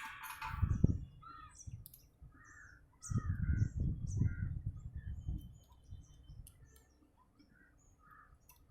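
Birds calling and chirping in short scattered notes, over low rumbling handling noise about a second in and again for a couple of seconds midway, with a sharp scraping clatter at the very start.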